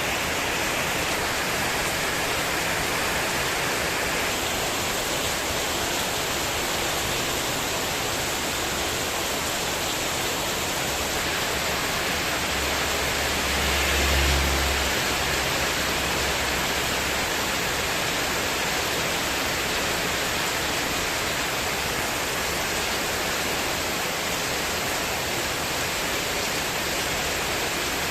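Heavy rain falling steadily in strong wind onto a spandek metal terrace roof, an even hiss. About halfway through, a low rumble swells briefly and fades.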